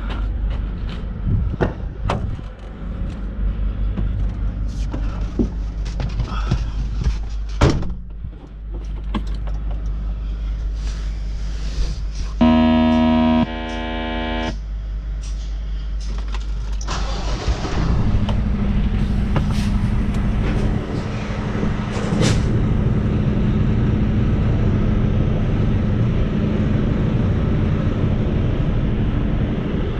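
Semi truck's diesel engine running in the cab, with scattered clicks and knocks. About halfway through, a steady electronic tone sounds for about two seconds. Then the engine note grows louder as the truck pulls forward under power.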